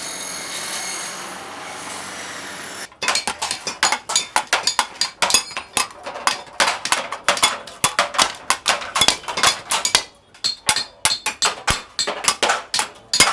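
Blacksmiths' hammers striking metal in a fast, irregular run of ringing blows, several a second, with a brief pause about ten seconds in. It is preceded by about three seconds of a steady hiss with a few high tones, which cuts off abruptly.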